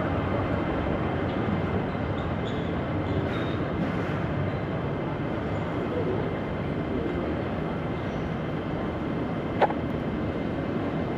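Steady rumble and hiss of a vehicle in motion, heard from inside, with one sharp click a little after the middle.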